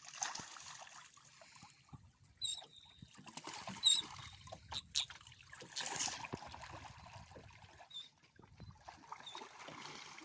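Water splashing and trickling around a small boat, with a few knocks. A bird gives short, high chirps several times.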